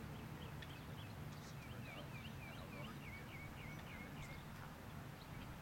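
A bird calling: a run of short, quick, repeated chirp notes, about four a second, that stops about four seconds in, over a steady low rumble.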